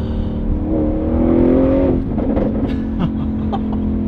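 Tuned Audi RS6 Performance's twin-turbo V8 with aftermarket exhaust, heard from inside the cabin: it rises in pitch for about a second under throttle, breaks off about two seconds in, then runs on steadily at a lower pitch.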